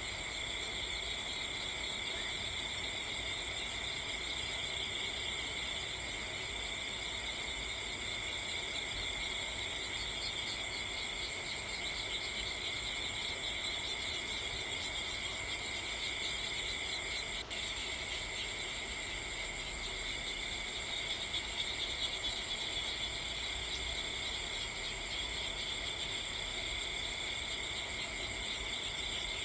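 Steady insect chorus, cricket-like chirring held on several high pitches without a break. There is one brief click about halfway through.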